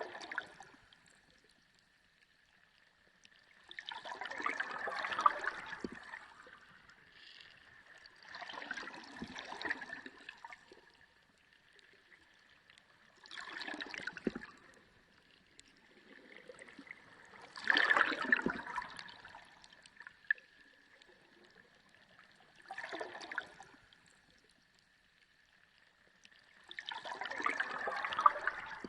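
Underwater ocean sound: bubbling, gurgling surges of water that swell and fade about every four to five seconds, with a faint steady high hum underneath.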